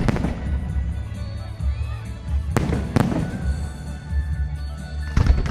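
Fireworks display: sharp shell bursts at the start, two bangs about half a second apart in the middle, and another near the end, with music playing underneath.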